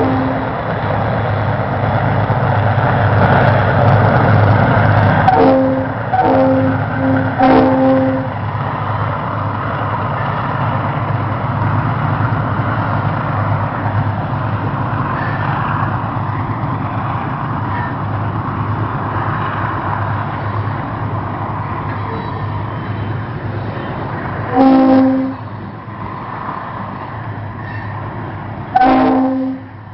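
Diesel locomotives hauling a coal train, their engines working hard under acceleration with a steady low rumble and the rolling noise of the train. The air horn sounds three short blasts a few seconds in and two more near the end.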